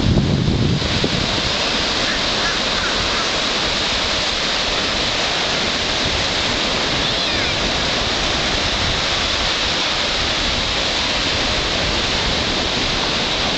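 Steady hiss of surf washing onto the beach. Low wind buffeting on the microphone drops away about a second in.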